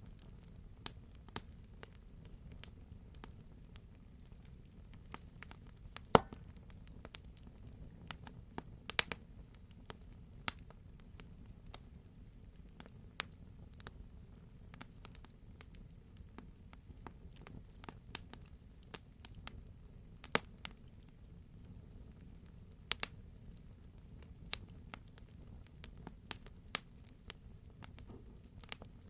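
Wood fire crackling: a steady low rumble of burning with irregular sharp pops and snaps, the loudest pop about six seconds in.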